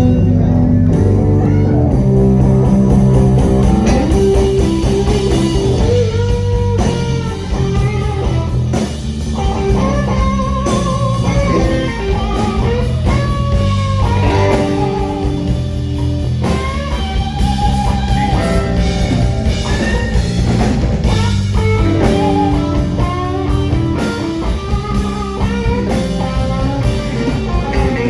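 Live blues band playing an instrumental passage: an electric guitar plays a lead line full of string bends over bass, chords and drums.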